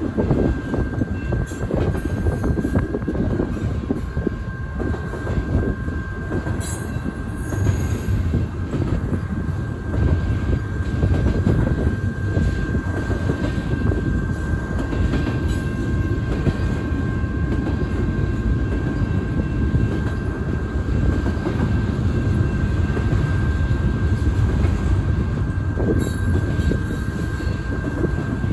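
Freight train of double-stacked container cars rolling steadily past: a continuous rumble of steel wheels on rail, with a thin steady high whine over it.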